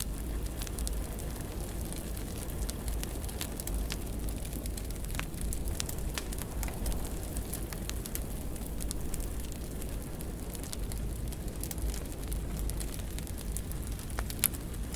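Fireplace fire crackling, with scattered small pops over a steady low rumble of flames and one sharper pop near the end.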